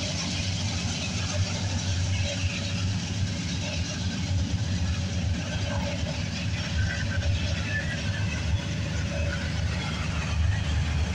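Double-stack intermodal well cars rolling past, a steady rumble of steel wheels on rail.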